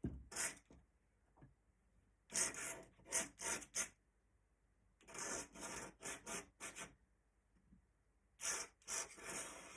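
Pen nib scratching across paper in short strokes, drawing in Indian ink: a single stroke at the start, then three clusters of quick strokes.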